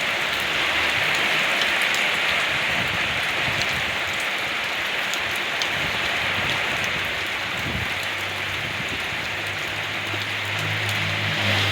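Steady rain falling, a dense even hiss with scattered individual drop ticks. A low hum comes in during the second half and grows stronger near the end.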